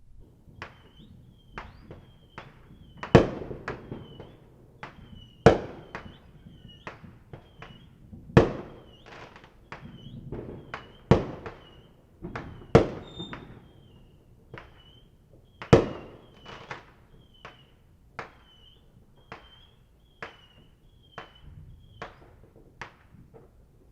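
Fireworks going off: a string of sharp bangs, six of them much louder than the rest, with many smaller pops in between.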